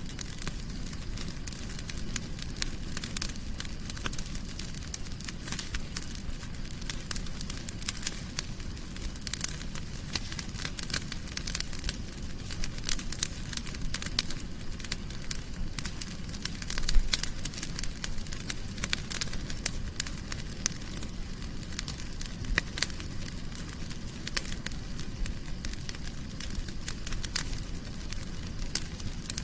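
Wood fire crackling in a fireplace: a steady low rumble of flames under many small, irregular pops and snaps, with one louder pop a little past halfway.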